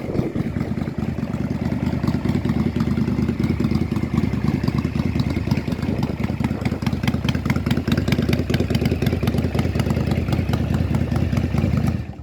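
Yamaha Drag Star 400 Classic's air-cooled V-twin engine idling steadily with an even, rapid pulse. It cuts off suddenly near the end.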